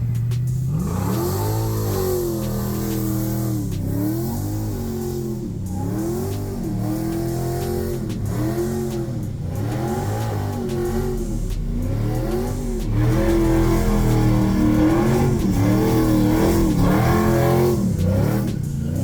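A car engine revved over and over, its pitch rising and falling every second or two, as a car is revved for a burnout. It gets louder about two-thirds of the way through.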